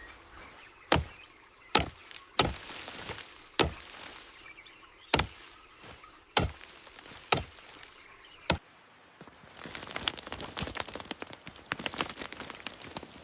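Chopping: about eight sharp strikes at uneven intervals, then a dense crackling rustle for the last four seconds.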